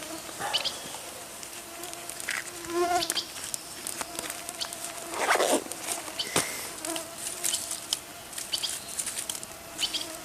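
Flying insects, mosquitoes and flies, buzzing in a steady hum close by, with scattered sharp clicks and snaps over it.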